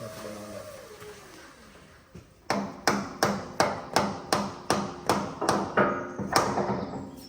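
Hammer blows on metal, a dozen or so at a steady pace of about three a second, starting about two and a half seconds in, each with a short metallic ring.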